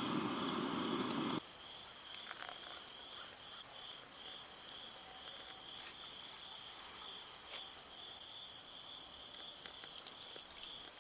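Insect chorus chirping steadily: a high continuous buzz over a lower chirp that pulses evenly. A low rushing noise underneath stops about a second and a half in.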